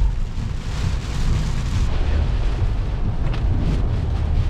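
Steady low rumble of a car driving, heard from inside the moving car.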